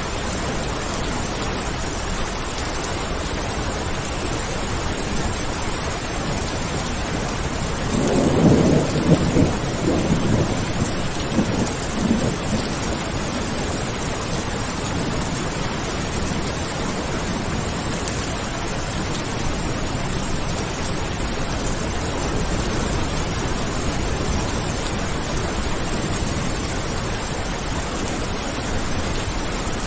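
Steady heavy rain, with a roll of thunder about eight seconds in that rumbles for a few seconds and fades.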